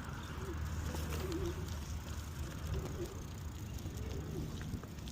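Pigeon cooing in short wavering phrases, several times over, above a steady low rumble of wind and riding noise.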